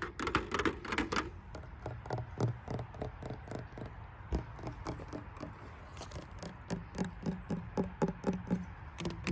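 Rapid ASMR tapping on a hard surface, with a scratchier flurry in the first second settling into even taps at about four to five a second.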